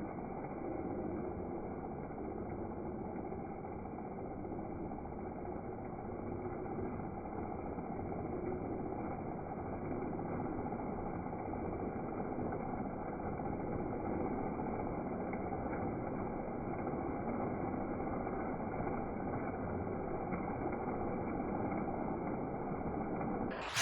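Lionel O-gauge 4-8-4 Northern steam locomotive with a Pullmore motor running steadily around the track: a continuous running noise of motor and wheels, with its Mighty Sound of Steam effect. A sudden, much louder noise cuts in at the very end.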